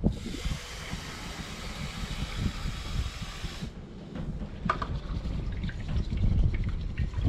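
Water poured in a steady stream into a cooking pot for about three and a half seconds, stopping suddenly, followed by drips and small clicks.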